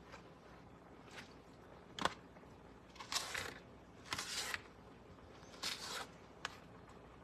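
Kitchen prep on a cutting board while cabbage leaves are trimmed: one sharp knock about two seconds in, then three short rustling, scraping strokes of a knife through cabbage leaves, and a small click near the end.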